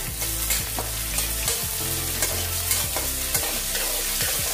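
Chopped onions sizzling in hot tempering oil in a metal kadhai, just added to the cumin, mustard seeds, curry leaves and peanuts. A spatula scrapes and knocks against the pan again and again as they are stirred.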